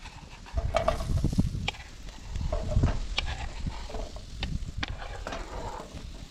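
Chopped food sizzling in a frying pan while a utensil stirs and scrapes it, with a run of uneven clicks and clatters.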